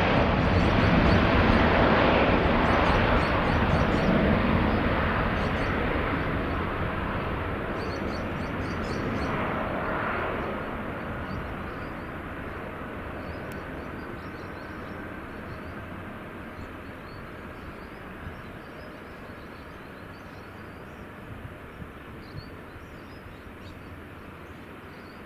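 Boeing 787-9 jet engines at takeoff power, the rumble fading steadily as the airliner departs. Faint bird chirps come through as it dies away.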